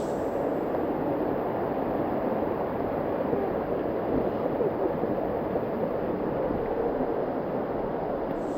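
A small waterfall rushing: a steady, unbroken wash of falling water.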